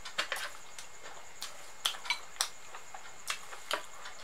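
Close-miked eating sounds: a person chewing with wet mouth clicks and lip smacks, about a dozen short, sharp, irregular clicks.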